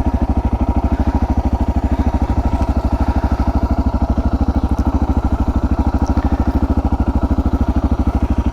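Suzuki DR650's single-cylinder four-stroke engine idling steadily, with an even beat of about twelve firing pulses a second.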